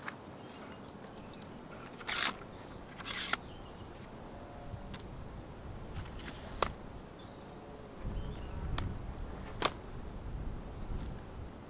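Handling noises: two short scraping rasps a second apart, then a few sharp clicks and knocks, with a low rumbling of movement near the end.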